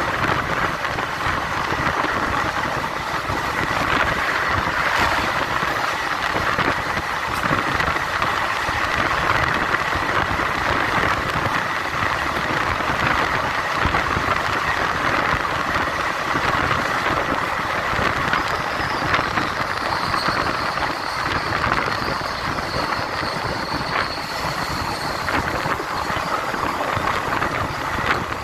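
Steady running noise of an Indian Railways passenger train on the move, an even rumble and rattle, with a faint high whine in the last third.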